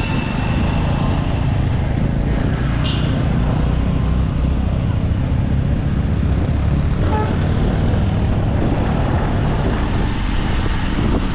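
Dirt bike being ridden, its engine running steadily under a dense rushing noise.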